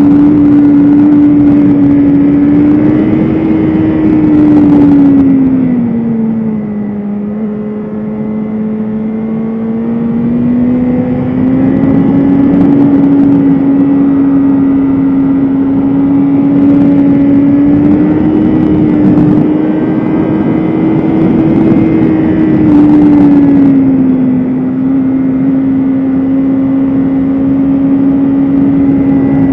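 BMW S1000RR inline-four engine running hard at high revs, its note holding high, sagging for a few seconds about six seconds in, then climbing back, with smaller rises and falls later.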